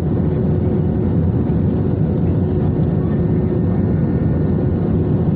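Steady cabin roar of an Airbus A320-214 airliner in flight: its CFM56 jet engines and the airflow over the fuselage, with a faint steady hum underneath.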